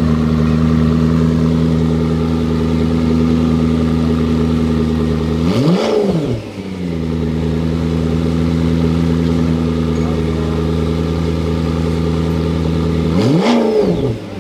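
McLaren P1's twin-turbo V8 idling steadily and blipped twice, about five and a half seconds in and again near the end, each a quick rise and fall in revs.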